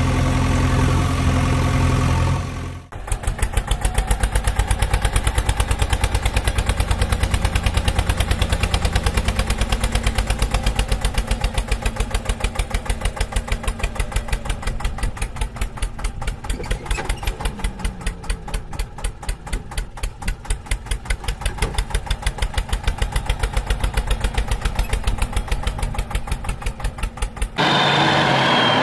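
Tractor engine running with a fast, even chugging beat, after a steady engine hum in the first couple of seconds. Near the end a different vehicle sound takes over.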